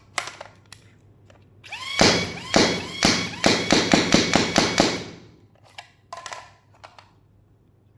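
AIT Max 40 Lightning battery-powered foam dart blaster firing a full magazine in one rapid burst of about ten shots over roughly three seconds, with a rising motor whine as it spins up at the start. The battery, down to its last bar, is still driving it at full pace. Light clicks of handling come before and after the burst.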